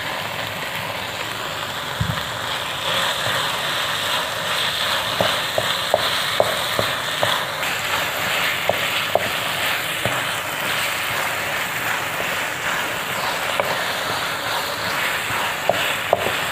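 Radish halwa sizzling in a non-stick pan as sugar is poured in and stirred with a wooden spatula, the sugar letting out its water into the mixture. From about five seconds in, the spatula scrapes and taps against the pan several times.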